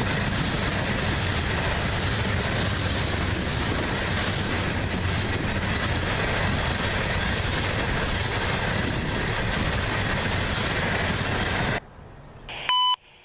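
Coal hopper cars of a freight train rolling past: a steady rush and rumble of steel wheels on rail. About a second before the end it drops to a much quieter sound, followed by a short, loud electronic beep of a scanner radio, just before a trackside defect detector's broadcast.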